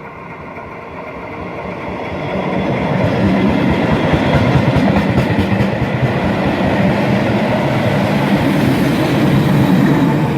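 Matterhorn Gotthard Bahn metre-gauge train running on the rails, its wheel rumble growing louder over the first three seconds and then holding steady.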